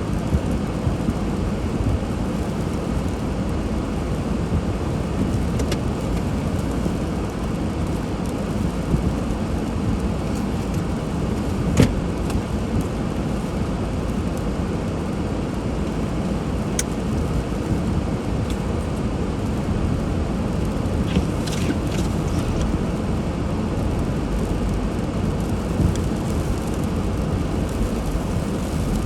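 Steady low rumble of a car driving on snowy roads, engine and tyre noise, with a few sharp clicks, the loudest about 12 seconds in.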